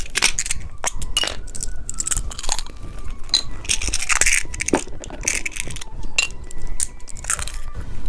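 Plastic candy packaging being handled and opened: an irregular run of small clicks, taps and crinkles.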